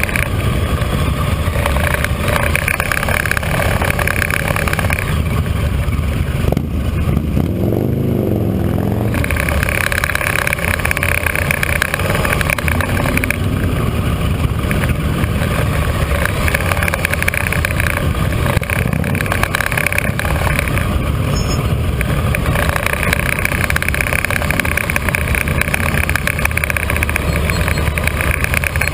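Motorcycle engine running steadily at low street speed, heard from on the bike. A wavering low tone comes in for a couple of seconds about seven seconds in.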